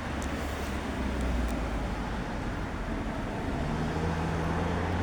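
Road traffic noise: a steady rumble and hiss with the low hum of a vehicle engine, joined by a second steady engine hum about three and a half seconds in.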